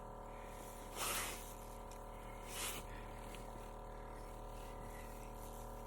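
Two short, breathy sniffs from a person about a second and a half apart, over a steady low hum.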